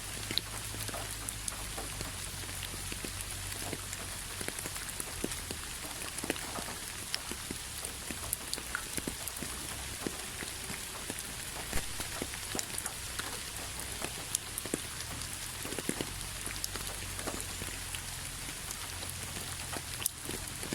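Steady rain with a constant hiss and many separate drops ticking and pattering irregularly on a hard surface.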